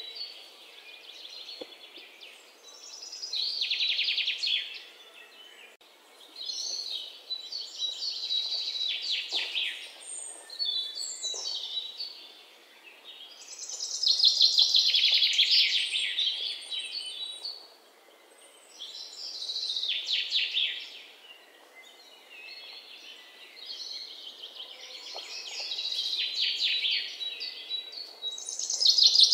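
Small birds chirping and trilling in repeated bursts of one to several seconds, with short gaps between them, over a faint steady hiss.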